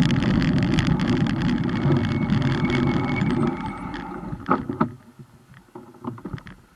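Wind rush and rumble from a moving bike, picked up on the rider's camera, dying away about three and a half seconds in. A few knocks and clicks follow before the sound stops.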